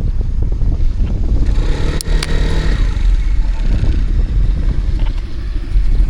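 City street traffic heard from a moving bicycle: a steady low rumble, with a motor vehicle passing close by from about one and a half to three seconds in.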